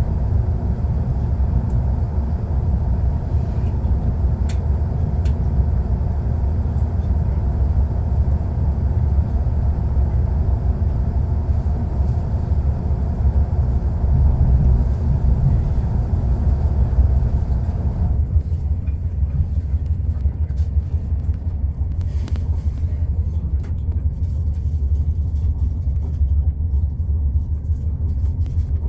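Train running noise heard from aboard a moving train: a steady low rumble with a higher rushing layer that falls away about 18 seconds in, leaving mostly the deep rumble.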